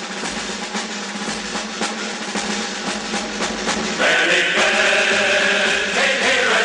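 Orchestral military march: a snare drum rolls and taps, then about four seconds in the full ensemble enters loudly with held melody notes over the drums.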